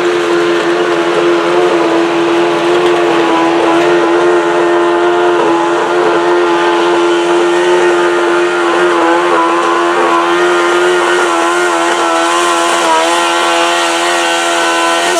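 Modified pulling garden tractor's engine screaming at high, nearly constant revs under full load, its pitch wavering slightly in the second half and dropping away sharply at the very end as the throttle is cut.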